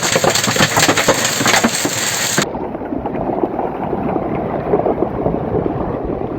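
Storm downpour: heavy rain pelting hard surfaces in a dense crackle of impacts. About two and a half seconds in it cuts abruptly to a duller, muffled stretch of the same pelting.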